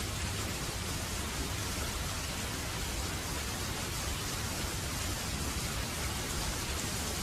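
Heavy rain falling steadily, an even hiss of rain with no distinct drops or thunder standing out.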